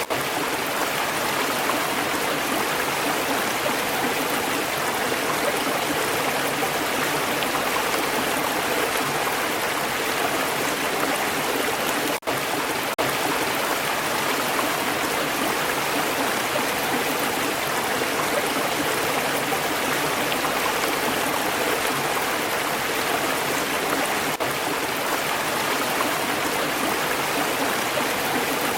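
Stream water flowing steadily, an even rushing and gurgling, with a momentary gap about twelve seconds in.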